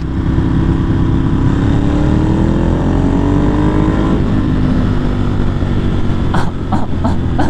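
Ducati 1198S's L-twin engine accelerating hard under way, its pitch rising steadily for about four seconds, then dropping at an upshift and pulling on at a lower pitch.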